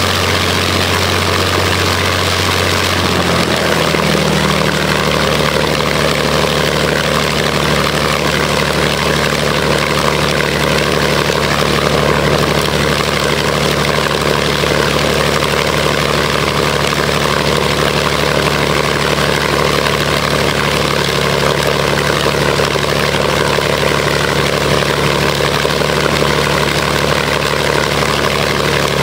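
Rolls-Royce Merlin 500-29 27-litre V12 aero engine running on a test run, its note stepping up to a higher engine speed about three seconds in and then holding steady.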